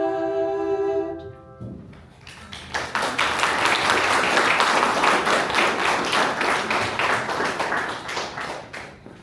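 The piano's final chord rings and dies away in the first second and a half. Then an audience claps for about six seconds, fading out near the end.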